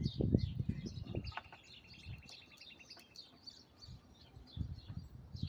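Small songbirds chirping repeatedly, with one bird giving a rapid, even trill for about two seconds starting just after a second in. Low thumps and rustles come in the first second and again near the end.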